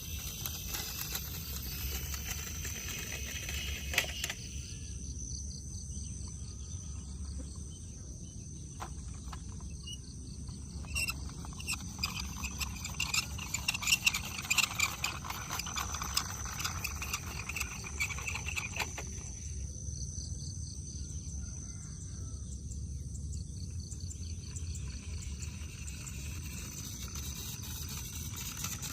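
Insects chirping in one steady high note over a low rumble, with a single click about four seconds in and a run of clicks and rattles from about eleven to sixteen seconds in.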